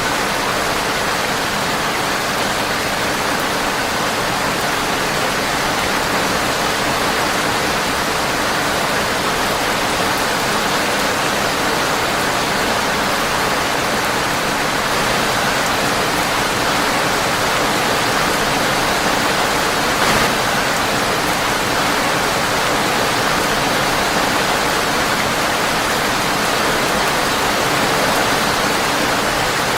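Steady rain tapping on a windowpane, an even hiss with one brief click about two-thirds of the way through.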